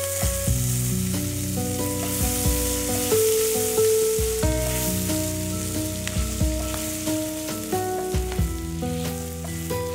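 Sliced garlic sizzling in hot oil in a nonstick frying pan, stirred with a spatula.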